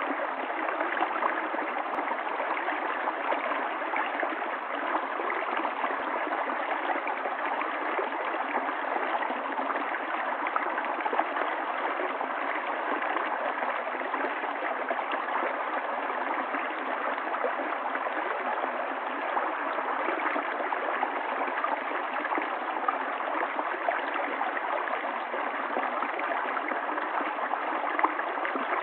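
Running water of a stream: a steady rush, with small gurgles and splashes breaking through.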